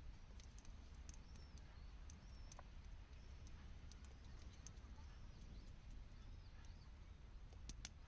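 Faint campfire crackling: sparse small pops and clicks scattered irregularly over a low steady rumble, with a few faint high chirps.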